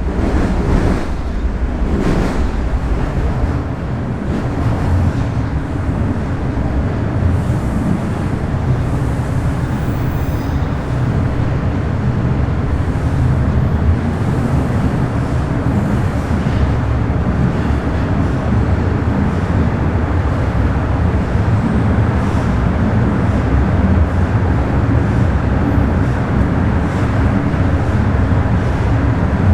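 Bombardier Toronto Rocket subway train running between stations: a steady, loud rumble of wheels and motors, with a few brief sharper rattles in the first couple of seconds.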